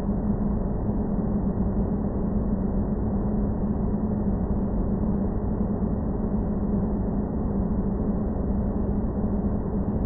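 Sci-fi space-planet ambience sound effect: a steady, dense, low rumbling noise drone with a constant hum running through it, unchanging throughout.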